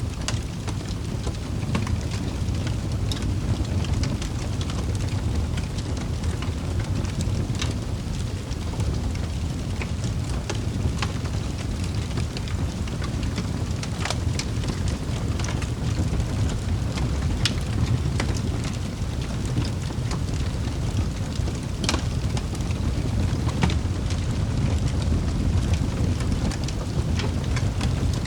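Wood fire burning in a fireplace: a steady low rumble of flames with scattered sharp crackles and pops every second or few.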